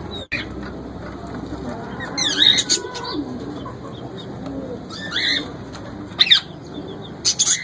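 Parrots calling in short, high chirps and squawks, in four or five separate bursts over a few seconds.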